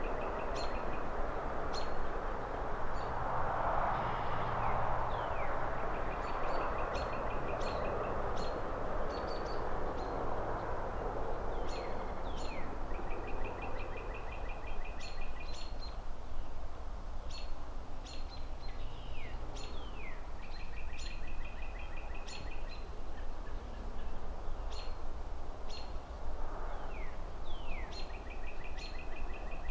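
Outdoor city ambience: birds chirping in short high calls, with one bird repeating a buzzy trill of about a second and a half every several seconds, over a steady low traffic rumble. A broad rushing swell a few seconds in, from a passing car or wind through trees, rises and fades away.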